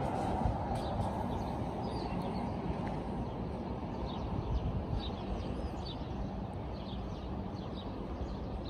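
Small birds chirping, short high chirps every second or so, over a steady low rumble of city background noise.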